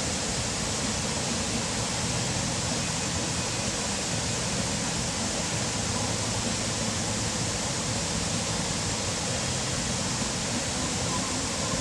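Steady rush of a waterfall's falling water, an even roar with no break or change.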